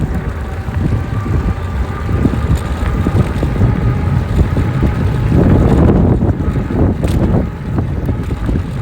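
Wind buffeting the microphone while riding an e-bike, a dense low rumble that swells louder about five to six and a half seconds in, with a faint steady whine beneath it.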